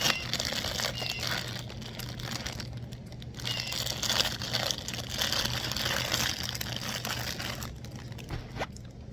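Packaging being handled and unwrapped, crinkling and rustling in uneven bursts with a couple of short pauses.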